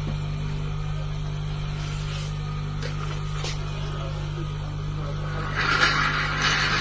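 Steady electrical hum, as from a rotary air-conditioner compressor that is powered up. About five and a half seconds in, a rough scraping or rubbing sound starts over it.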